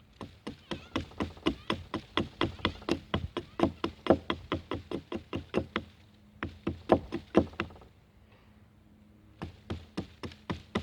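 A blade chopping quickly into wood, about four to five sharp strikes a second, shaping a stool leg to a point; the strikes stop for a moment near the end, then start again.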